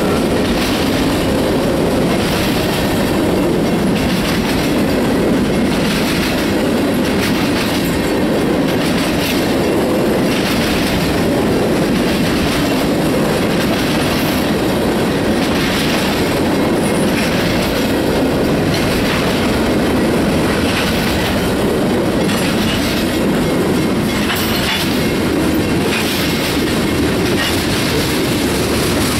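Freight cars of a passing train (covered hoppers and a centerbeam lumber flatcar) rolling by close to the track, with a steady rumble of steel wheels on rail. A clickety-clack recurs about once a second.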